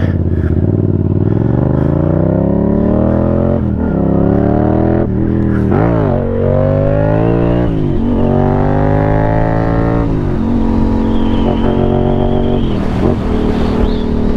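Motorcycle engine accelerating through the gears: its pitch climbs and drops back at each of four upshifts, then holds steady at cruising speed for the last few seconds.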